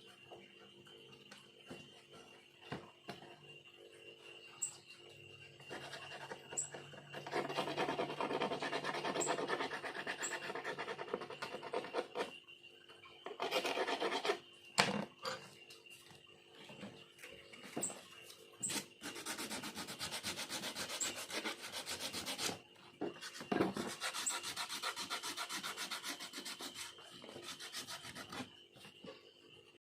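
A hand tool scraping bamboo in about four bouts of fast back-and-forth strokes, the longest lasting about five seconds, with short pauses between.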